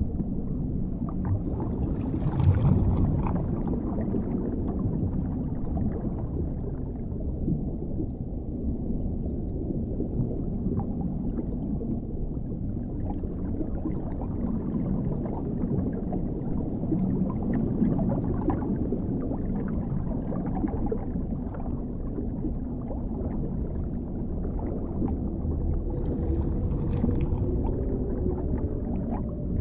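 Underwater ambience: a deep, steady rumble of water with gurgling bubbles and small crackles, swelling briefly about two seconds in. Near the end a held tone comes in over the rumble.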